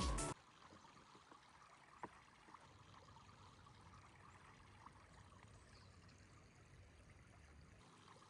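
Faint, steady flow of a shallow river, with a few small clicks or knocks.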